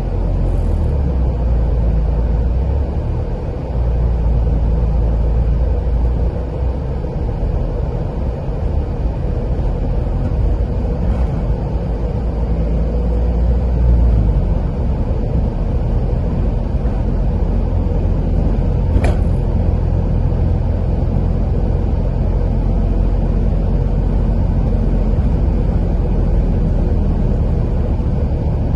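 Car driving on a country road: a steady, low rumble of tyres and engine. There is a single short click about two-thirds of the way through.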